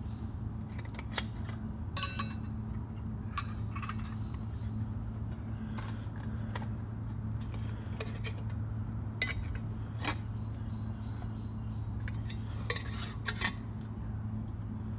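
Metal camp cookware clinking and scraping: a pot, cup and utensils handled while coffee is made. There are irregular light clinks every second or so over a steady low hum.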